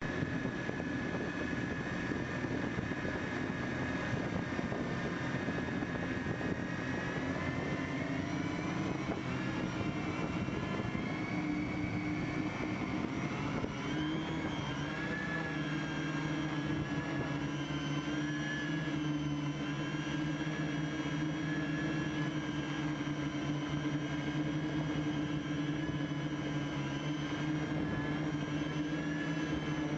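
Home-made quadcopter's electric motors and propellers whining steadily in flight, heard from the camera strapped under its frame, with the pitch stepping up about eight seconds in and again around fourteen seconds.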